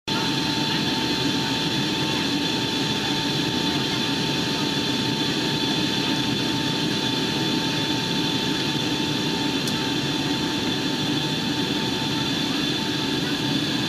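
Steady in-flight cabin noise inside a Boeing 757-200 airliner: jet engine and airflow rush with a steady whine running through it.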